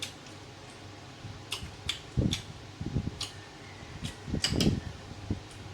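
Electric fan running steadily, with eating sounds over it: chewing and a few light clicks of tableware.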